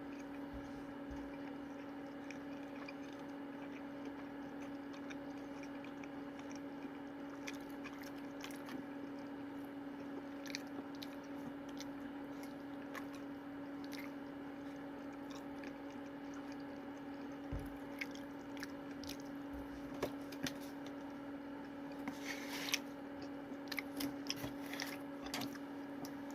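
A person eating: faint chewing and mouth clicks, growing more frequent in the last few seconds, over a steady low electrical hum.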